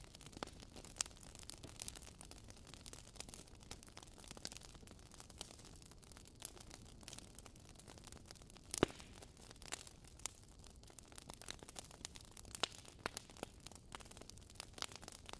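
Wood fire crackling in a fireplace: faint, irregular pops and snaps over a low hiss, the sharpest pop about nine seconds in.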